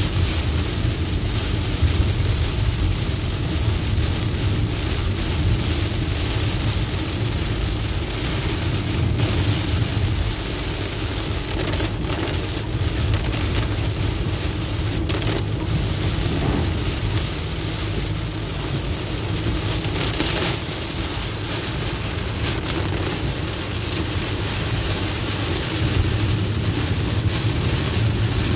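Heavy rain beating on a car's windshield and roof, heard from inside the moving car over the low, steady rumble of the car on the wet road.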